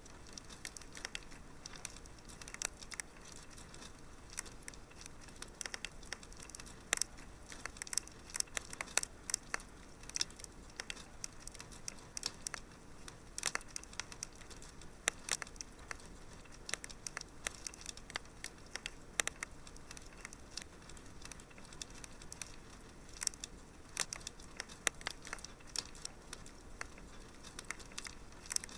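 Wood fire burning in a fireplace, crackling with many sharp, irregular pops and snaps over a soft steady hiss.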